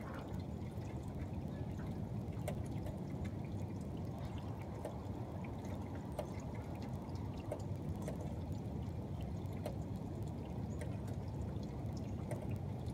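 Steady trickle of rainwater with scattered light drip ticks.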